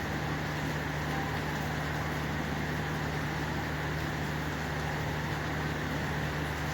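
Steady rainfall, an even, unbroken hiss, with a low steady hum underneath.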